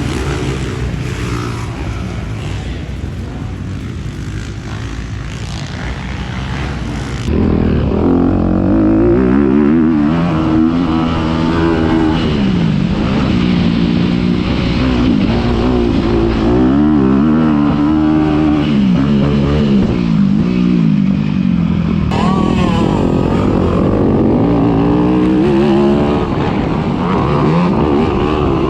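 Four-stroke 250cc motocross bike engines being ridden, revving up and falling back again and again through gear changes, with abrupt shifts in the sound at edits. The first several seconds are steadier and quieter.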